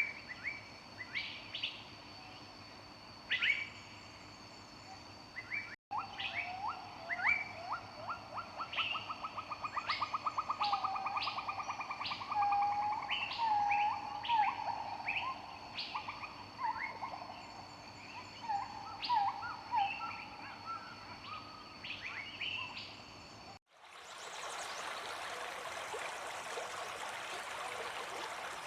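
Assorted birds calling over a steady high background whine: short chirps, whistled notes and a rapid trill. About 24 s in it cuts to the steady rushing of a stream.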